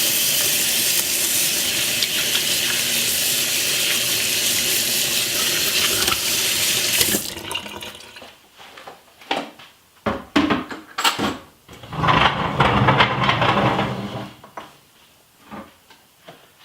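Kitchen tap running steadily into a sink, shut off after about seven seconds. Scattered clatter and knocks follow, with another short rushing sound a little later.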